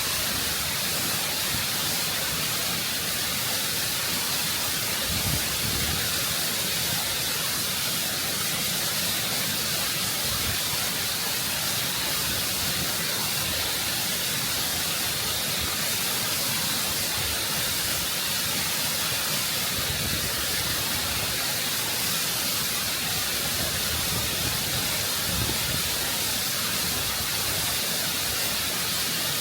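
Close-up waterfall, rushing water cascading over rock in a constant, full rush of noise.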